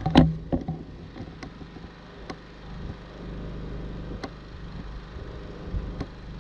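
Champion 3400-watt dual fuel inverter generator running steadily with no load in economy mode, heard from about 23 feet away, where it easily meets its noise spec. A sharp click just after the start and a few faint ticks.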